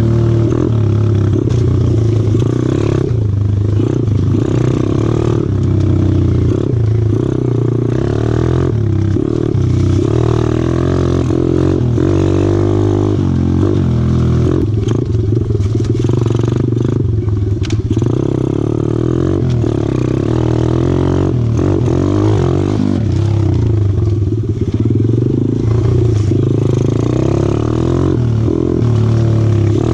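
125cc four-stroke pit bike engine running under way, its pitch rising and falling several times as the throttle is worked.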